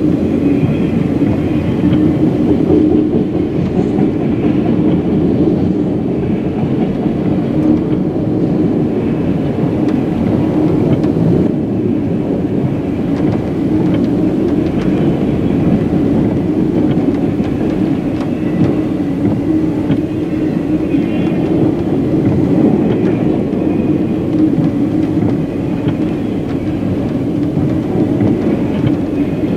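A CSX freight train's autorack cars rolling past close by: steel wheels on rail, making a steady rolling noise with some clickety-clack.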